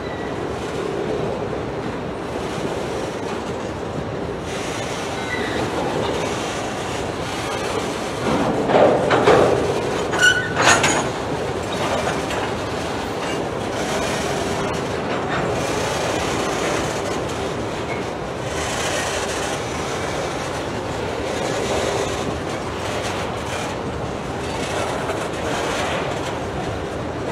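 Train cars rolling past with wheels clicking over rail joints, as a steady rumble with a constant hum. About ten seconds in it grows louder, with a brief high wheel squeal.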